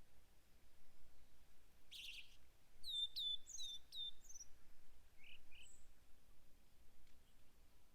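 Small forest songbirds calling over a faint steady hiss of wind. About two seconds in comes a short scratchy call, then a quick run of four or five sharp, high, down-slurred chirps, then two lower notes.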